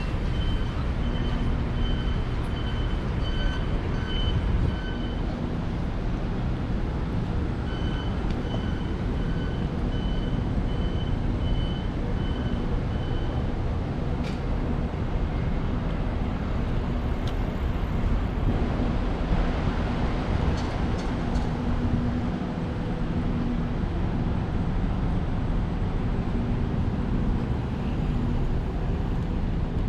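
Street traffic noise from passing vehicles. In the first half, a high electronic beep repeats about twice a second, pausing briefly once before it stops.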